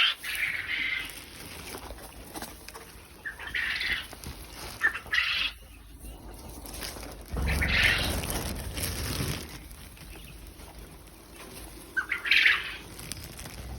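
Quail flapping their wings and giving short calls, in about five separate bursts a few seconds apart; the longest, fullest burst comes about halfway through.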